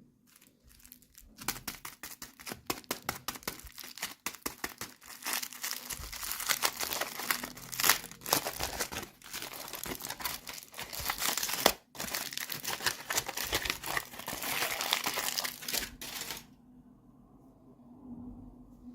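Crinkly packaging being handled, crumpled and torn open by hand, a dense crackling that starts about a second in, breaks off briefly, and stops shortly before the end, leaving a faint rustle.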